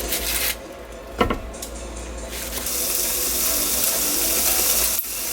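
Kitchen tap running into a sink, the water noise building up about two and a half seconds in after a single click about a second in; it cuts off just before the end.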